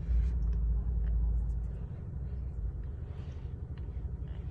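Faint chewing of a mouthful of cornstarch: scattered small crunching clicks and short soft crunches. Under them is a steady low hum, and a heavier low rumble that drops away about two seconds in.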